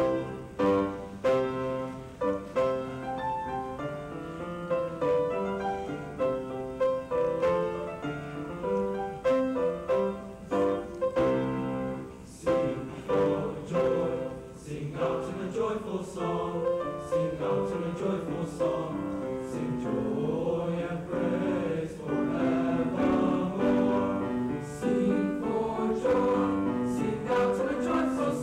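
Junior high school choir singing with piano accompaniment. The music starts suddenly at the beginning, with strongly struck piano chords for the first dozen seconds and sustained voices filling in more fully later.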